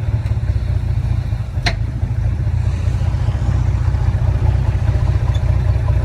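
Diesel engine of earthmoving machinery running steadily under load, with a brief sharp squeak about two seconds in.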